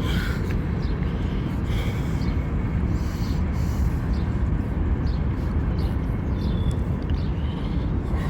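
Steady low rumble of wind buffeting the microphone, with a few short, faint high chirps of birds.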